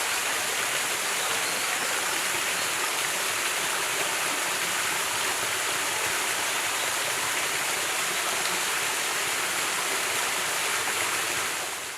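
Mountain stream running steadily, an even rush of water that fades out right at the end.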